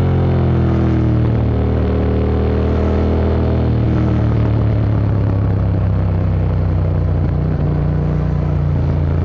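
Yamaha MT-07's 689 cc parallel-twin engine through an Akrapovic Racing Line exhaust: the revs drop over the first second or so, then the engine runs at a steady speed.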